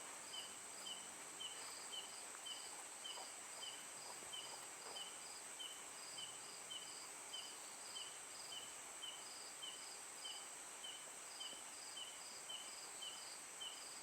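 Night insects calling: a steady high buzz with a faint, even chirp repeating about twice a second.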